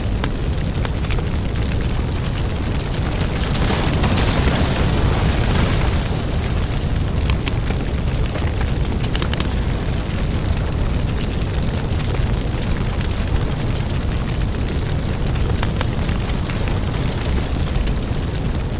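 Wood fire burning in a fireplace: a steady rush of flames with frequent crackles and pops. It swells louder about four to six seconds in.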